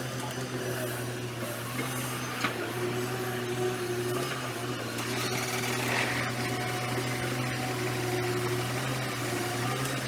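Heavy diesel engine of an excavator running steadily, with a single sharp click about two and a half seconds in.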